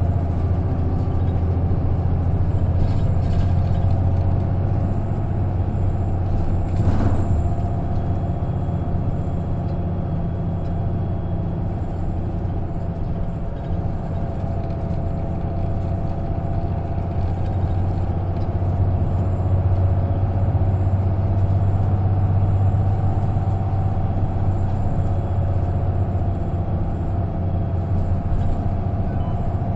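Interior running sound of an Isuzu KK-LR233J1 non-step bus under way: a steady low engine drone with road noise that rises and falls a little. A short sharp noise cuts through about seven seconds in.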